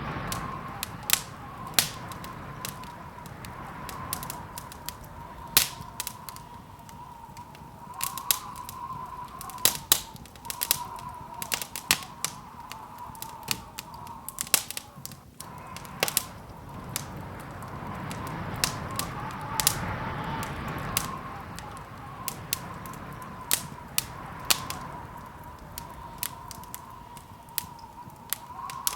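Wood fire crackling in a fireplace: irregular sharp pops and snaps, a few much louder than the rest, over a steady rushing background.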